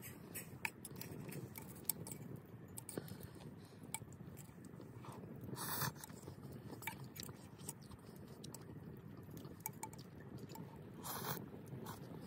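Chewing and eating close to the microphone, with scattered sharp crackles and clicks from a wood campfire and a steady low rumble underneath.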